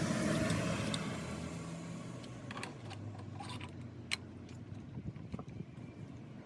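A motor vehicle's noise fades away over the first two seconds, followed by a few light, sharp clicks and clinks.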